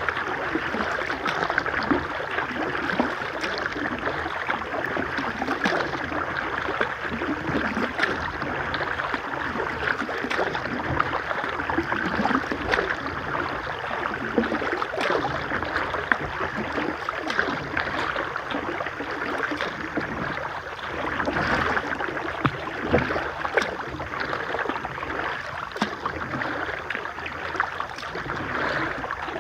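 River water splashing and rushing steadily around a kayak, with many small splashes throughout.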